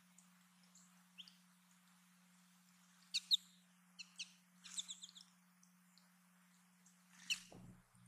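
Small songbirds at a feeder giving short, sharp chirps in a few scattered clusters, over a faint steady low hum, with a brief low thump near the end.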